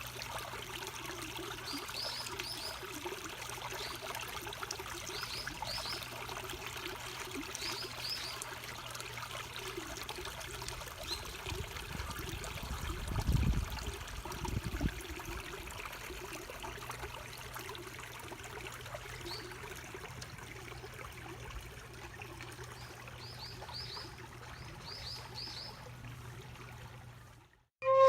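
Water trickling steadily, with a bird's short high chirps in quick groups of three every few seconds. A brief low rumble comes about halfway through.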